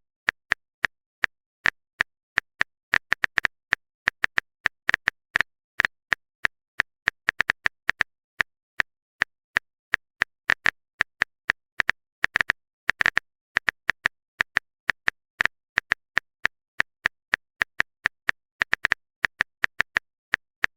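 Phone keyboard typing sound effect: a steady string of short, crisp clicks at irregular spacing, several a second.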